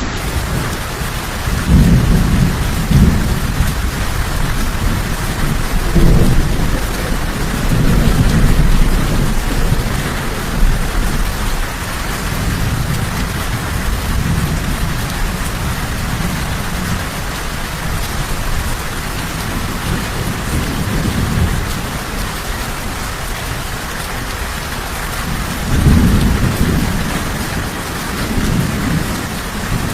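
Steady rain falling, with rolls of thunder rumbling low underneath: the strongest come about two seconds in, several more between six and nine seconds, and another near the end.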